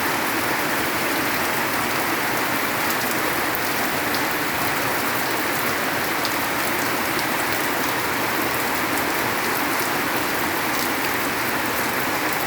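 Heavy downpour of rain falling steadily on surfaces, an even, unbroken hiss with fine drop patter mixed in.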